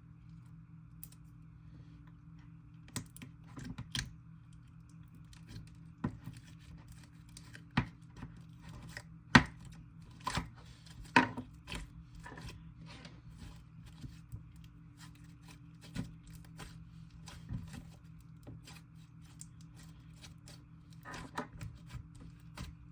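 Sticky slime being stretched, squished and poked by hand, giving irregular wet clicks and pops, the loudest two a little past the middle, over a steady low background hum.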